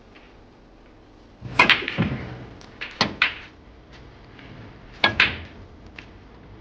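Sharp clicks of snooker balls: three shots, each a cue tip striking the cue ball and then balls clacking together a split second later.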